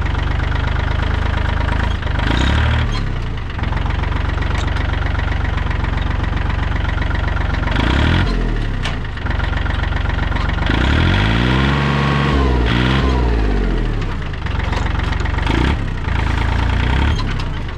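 Tractor engine running steadily and revved up and back down several times, the longest swell about eleven to thirteen seconds in.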